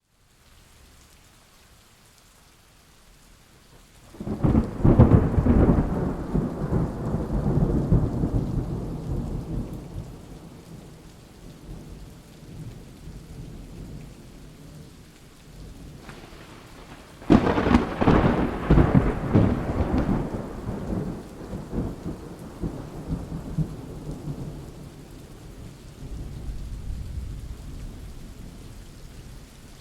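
Steady rain with two loud thunderclaps, one about four seconds in and one about seventeen seconds in, each cracking suddenly and then rolling and rumbling away over several seconds, with a fainter rumble near the end.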